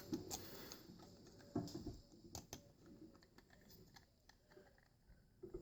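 Faint, scattered clicks and light rustling of hands handling a 3D-printed PLA toothpaste tube squeezer and a toothpaste tube, working the tube into the squeezer's slot, with a slightly louder handling noise about a second and a half in.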